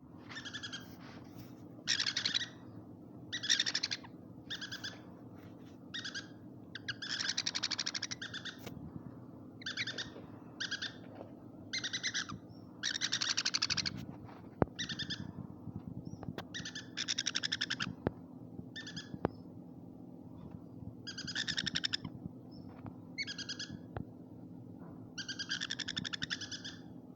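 Lovebirds calling: harsh, raspy screeches in repeated bursts, some short and some about a second long, every second or two, over a steady low hum.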